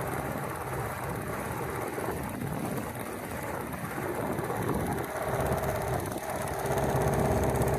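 Outboard motor on a small boat running steadily, a little louder in the last few seconds.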